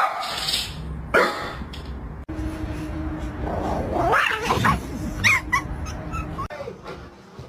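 A pet animal's vocal cries, with a rising and falling call about four seconds in, broken by abrupt cuts between short clips.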